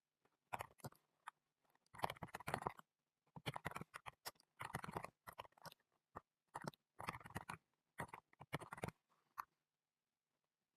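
Computer keyboard typing in short bursts of rapid key clicks with brief pauses between them, stopping about a second before the end.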